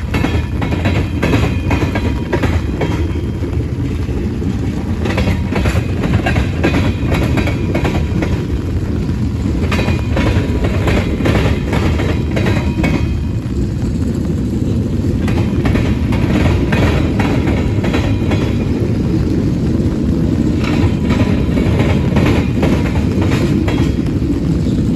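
Manifest freight train's cars rolling past: a steady rumble with clusters of wheel clicks over the rail joints.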